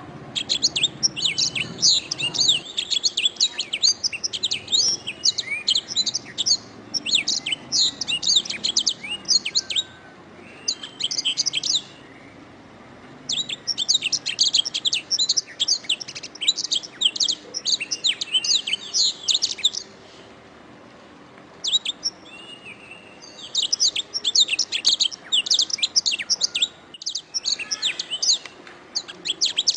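Domestic canary singing long phrases of fast, high trills and chirps, broken by several short pauses.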